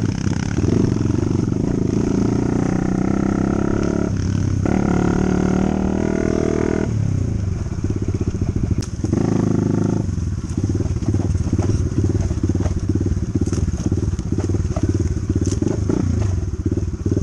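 Dirt bike engine running under way, its revs climbing in three stretches over the first ten seconds, then running at lower revs for the rest.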